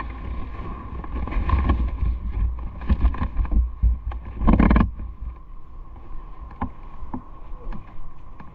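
Wind buffeting the microphone while riding a bicycle, a heavy low rumble with scattered small clicks and rattles. The rumble swells louder for about half a second, some four and a half seconds in.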